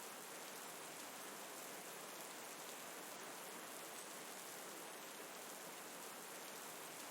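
Steady rain falling, an even, unbroken hiss that stays at one level throughout.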